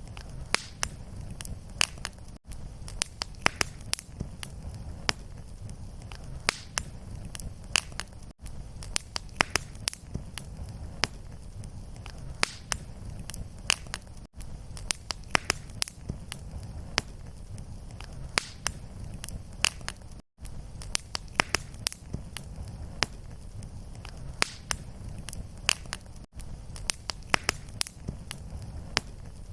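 Fireplace wood fire crackling: irregular sharp pops and snaps over a steady low rumble of the flames, with a very brief dropout about every six seconds.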